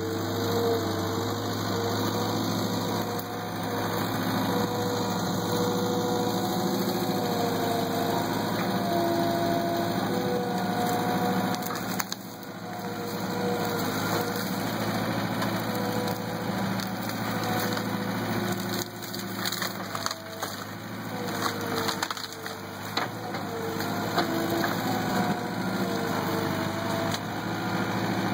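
Backhoe engine running, its pitch rising and falling as the hydraulics work, while a grapple grips and breaks a tree branch with scattered cracking and splintering of wood.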